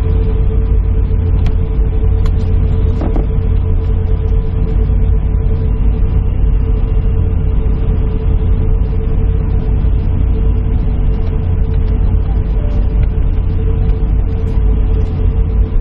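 Airliner cabin noise: a steady low rumble with a constant mid-pitched hum over it.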